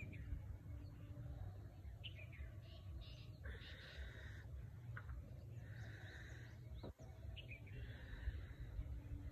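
Birds chirping and calling: short chirps scattered throughout and a few longer calls of about a second each. Under them runs a low, steady rumble of outdoor noise.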